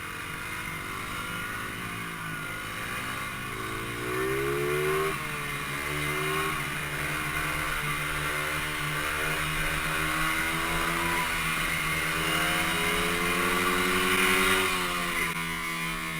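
Pit bike's small single-cylinder engine revving, its pitch climbing and falling several times as the rider works the throttle, loudest on a long climb near the end.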